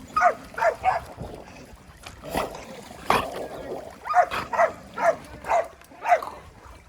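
A dog barking in short, high yaps: three quick ones near the start and five more in the second half. Two sharper noises come in between.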